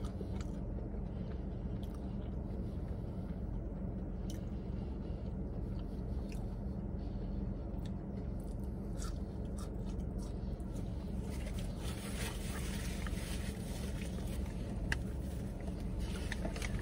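A person chewing French fries, with small wet mouth clicks, over a steady low hum inside a car. About two-thirds of the way through, a louder rustling comes in.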